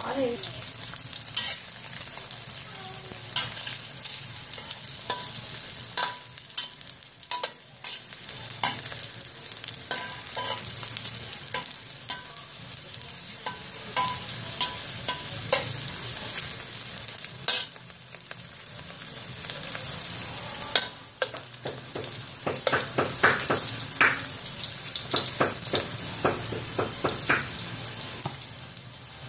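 Shiitake mushrooms sizzling in hot oil in a wok, with a metal spatula scraping and tapping against the pan as they are stirred. The scraping comes in scattered strokes and is busiest near the end.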